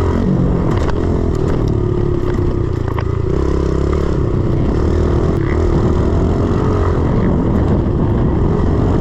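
A 110 cc pit bike's single-cylinder four-stroke engine running under load as the rider works the throttle over a rutted track, its pitch rising and falling, with a few short clicks and rattles.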